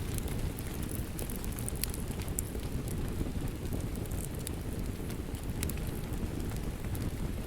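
Steady rain with a fire crackling, sharp pops scattered through it, over a low rumble.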